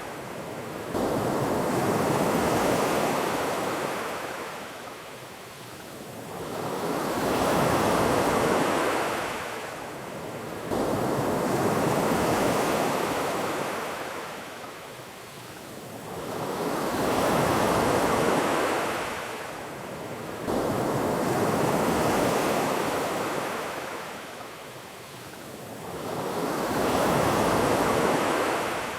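Ocean surf: waves breaking and washing up the shore, then drawing back, in slow surges about every five seconds.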